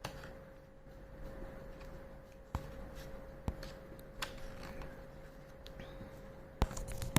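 Scattered light clicks and taps over a steady faint hum, with a quick run of louder taps near the end.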